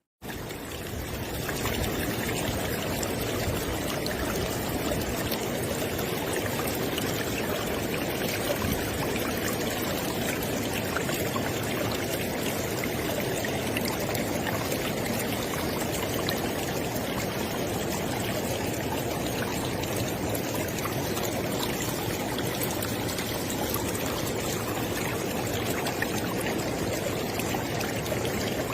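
River water flowing, a steady, even rush of running water that comes in quickly just after a moment of silence at the start and then holds level.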